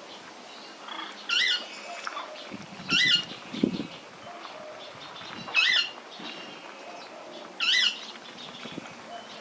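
An aviary bird giving a loud, short call four times, each rising and then falling in pitch, with other birds chirping faintly between the calls.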